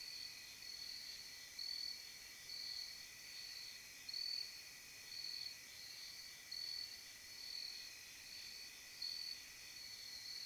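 Chorus of crickets and other night insects: a steady high trilling, with one high-pitched call pulsing roughly once a second.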